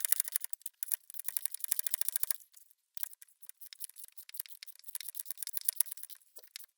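Socket ratchet clicking in quick runs as the upper shock-mount nuts are run down and tightened, with a brief pause about two and a half seconds in.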